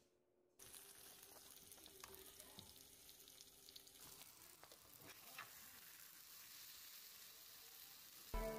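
Potato fry (potatoes with onion, tomato and masala) frying in oil in a pan: a faint, steady sizzle with small pops, starting about half a second in.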